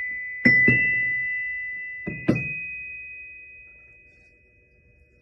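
Flood-damaged glockenspiel: four notes struck in two quick pairs, the high bar tones ringing on and slowly dying away after the last pair.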